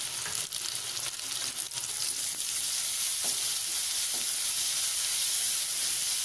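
Sliced onions, green chillies and ginger-garlic paste sizzling in hot oil in a kadai, stirred with a wooden spatula. The sizzle gets a little louder about two seconds in.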